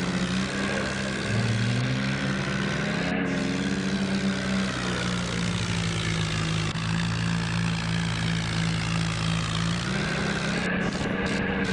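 New Holland tractor's diesel engine running steadily under load while pulling a loaded trolley, with small shifts in engine speed about a second in and again near the end.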